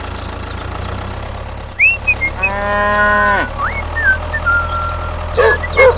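A cow mooing once, a single call of about a second, over a steady low engine hum, with a few short high chirps before and after it.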